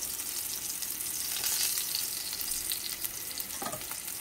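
Beef chapli kebabs shallow-frying in a little oil in a pan, a steady sizzle.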